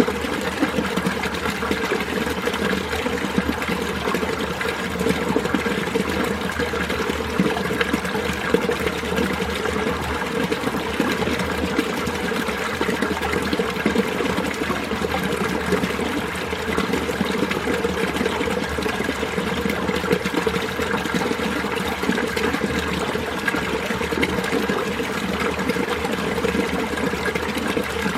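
Mountain valley stream running over rocks, a steady, unbroken rush and babble of water.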